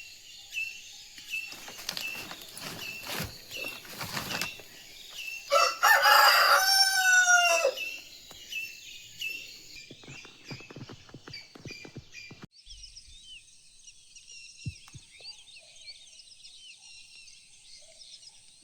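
A rooster crows once, a long call about six seconds in and the loudest sound here. Small birds chirp in a repeating pattern around it. About twelve seconds in, the sound changes suddenly to many birds chirping over a steady high hiss.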